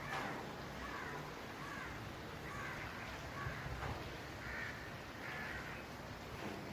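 Birds calling in a string of short, harsh calls, about one a second, over a steady background hiss.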